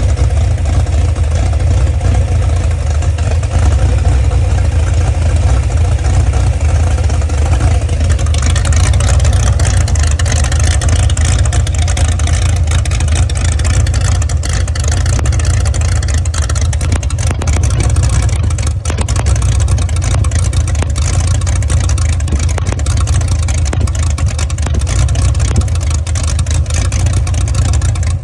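Chrysler LA 360 small-block V8, fitted with an Isky 270 Mega camshaft, running steadily with a deep low exhaust note. The sound takes on a brighter, harsher edge from about eight seconds in.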